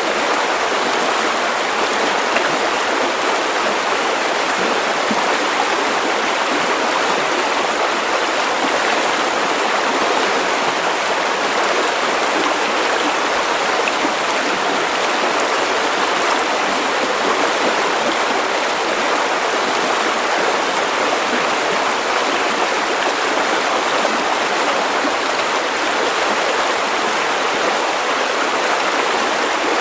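River water running steadily over stones, a continuous rushing and babbling stream.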